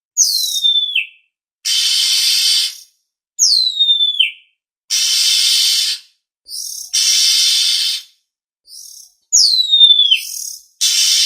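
Oriental magpie-robin calling: a clear whistle that slides down in pitch, heard three times, alternating with harsh, rasping calls about a second long.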